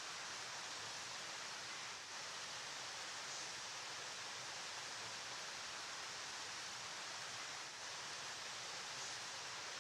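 Flowing river water making a steady, even rushing hiss that never changes.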